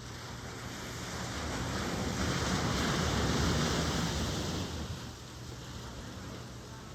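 Ocean surf: a wave builds, breaks and washes in, loudest about three seconds in, then falls back to a steady hiss of water.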